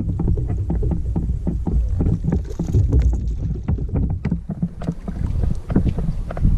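Fishing kayak on the water: a steady run of small irregular knocks and splashes against the hull, over a low rumble of wind on the microphone.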